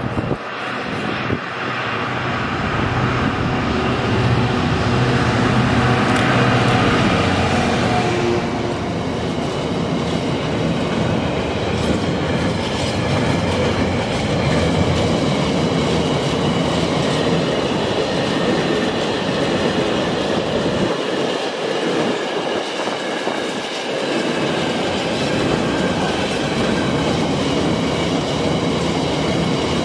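Freight train of container flat wagons passing close by, a steady rumble with wheel clatter over the rail joints. A low steady hum is heard for the first eight seconds or so, then fades, and faint high ringing tones carry on over the rolling wagons.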